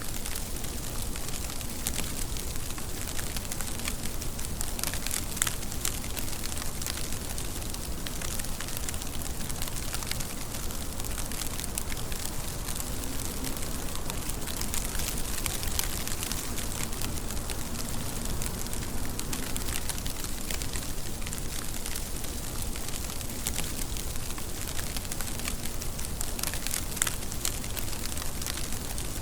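Steady rain falling, with close drops ticking and crackling against a surface. Two sharper drips stand out, one about five seconds in and one near the end.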